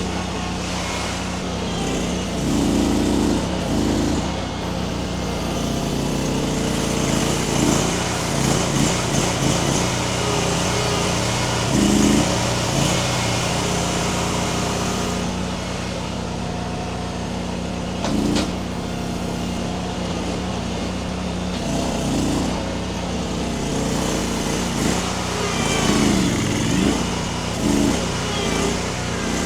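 Baumalight mini skid steer's engine running steadily, its load swelling and easing several times as the grapple works a tree's root ball loose. A single sharp knock sounds about eighteen seconds in.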